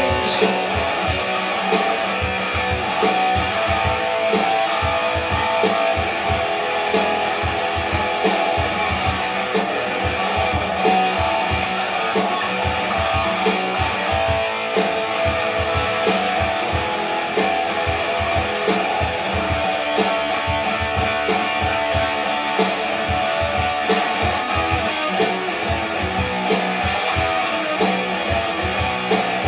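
Rock band playing an instrumental break: electric guitars over a steady drum beat, with no vocals.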